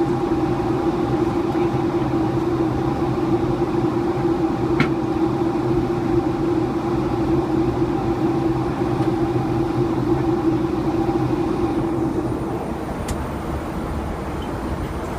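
Steady cabin drone of a Boeing 757 in flight: engine and airflow noise with a constant hum. There is a single light click about five seconds in, and the drone eases slightly near the end.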